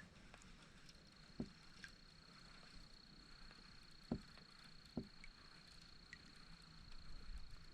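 Near silence on the water: a faint steady high-pitched tone, with three soft knocks from the kayak and fishing gear about a second and a half, four and five seconds in, the middle one the loudest.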